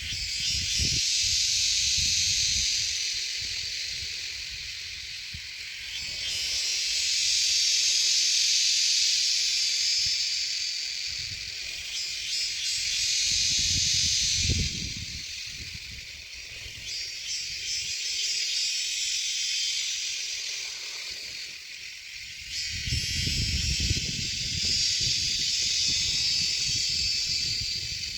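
Shrike nestlings begging in a harsh, hissing chorus, in about five bouts of a few seconds each with short pauses between. Low rumbles come in under the calls around the middle and again near the end.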